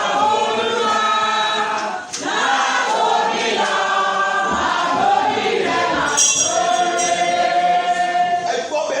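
A choir of voices singing a gospel song together in long, held notes, with a brief break about two seconds in.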